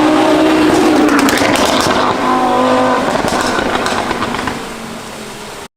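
Audi RS3 8Y's turbocharged 2.5-litre five-cylinder, breathing through a catless downpipe and valved catback exhaust, accelerating hard with rising pitch. Bursts of sharp exhaust pops and crackles come about a second in and again about three seconds in. The sound then fades away and cuts off near the end.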